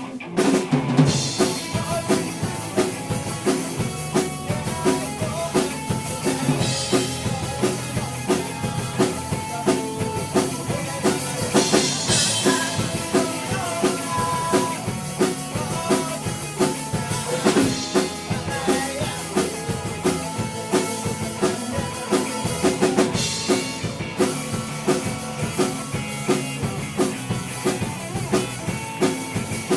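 Live rock band playing: a drum kit keeping a steady beat under bass and electric guitar, with cymbal crashes every five or six seconds.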